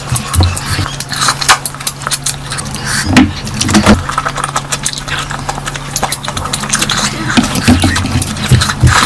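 A person eating close to the microphone: irregular wet chewing and mouth clicks.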